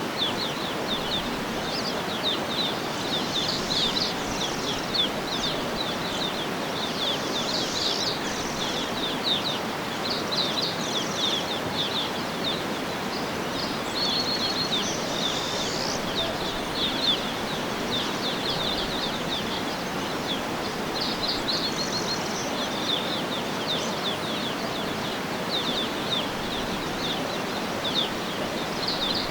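Small birds chirping in quick runs of short high notes, over a steady rushing background hiss.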